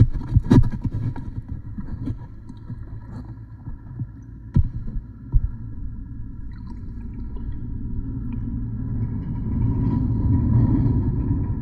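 Muffled low water rumble picked up by a phone recording underwater, with a few sharp knocks just after the start and about four and a half and five and a half seconds in. The rumble swells near the end.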